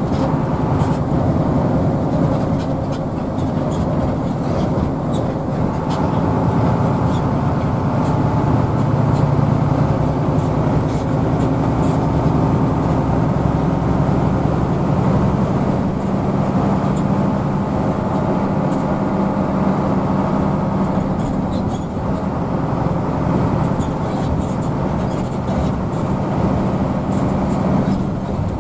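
Hino AK bus's diesel engine running under way, heard from inside the bus as a steady drone. Its note climbs gradually through the middle as the bus picks up speed.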